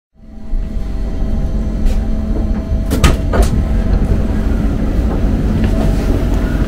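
Regional train heard from inside the carriage while running: a steady rumble with a constant hum, and a few sharp knocks about halfway through.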